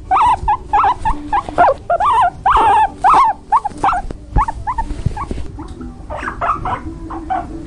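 A dog, likely puppies, whining and yipping in a rapid string of short, high-pitched calls that grow quieter over the last few seconds.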